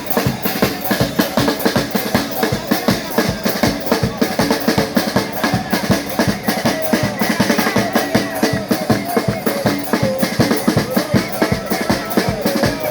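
Charanga street band playing: a fast, loud drum-kit beat with wind instruments carrying the melody.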